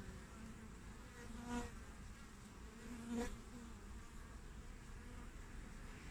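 Honeybees buzzing at the hive entrance, with two bees flying close past the microphone: a louder buzz about one and a half seconds in and another about three seconds in.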